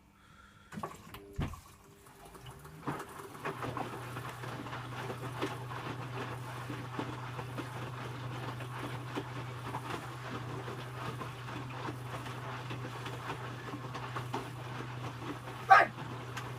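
Electrolux W455H commercial washing machine running its wash: a few clicks, then about three seconds in its drum motor starts and runs with a steady low hum over a rumbling, clattering noise from the drum. One sharp knock near the end.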